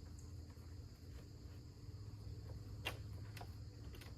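Steady high trilling of crickets, with a low hum underneath. Two sharp clicks about three seconds in.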